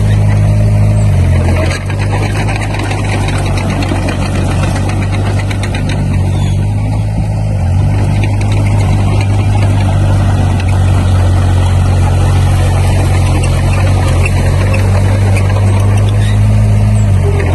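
Heavy construction machinery's diesel engine running steadily, its engine speed stepping down and back up a few times, over a continuous mechanical rumble.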